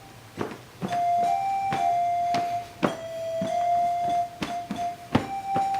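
Electronic chime tones from an interactive sound-and-light floor: a string of short held notes stepping between a few pitches, broken up by sharp knocks.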